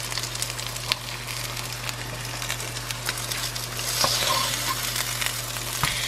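Chicken burger patties frying in avocado oil in a nonstick pan: a steady sizzle with fine crackles of spitting oil, a little stronger about two-thirds of the way through, and a couple of light clicks.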